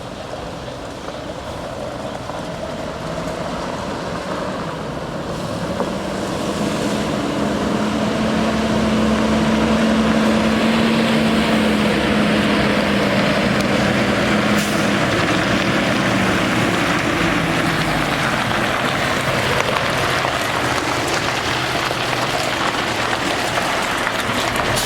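The Cummins 6.7L ISB diesel of a Ford F750 water truck running, growing louder over the first eight seconds and then holding steady with a broad hiss.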